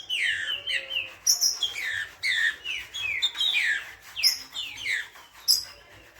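Green-winged saltator (trinca-ferro) singing: a rapid string of clear whistled notes, each sliding down in pitch, mixed with short higher notes, with a brief lull near the end.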